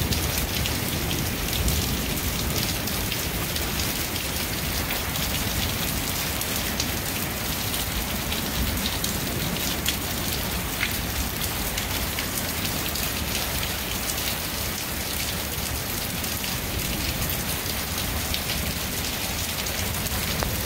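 Steady rain falling in a storm: an even hiss dotted with fine drop ticks.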